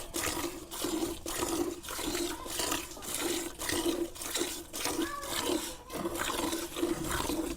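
A cow being milked by hand: streams of milk squirting in a steady rhythm, about two squirts a second.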